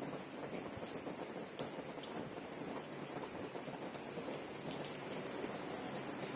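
Steady rain falling, with a few sharper drops striking a surface now and then.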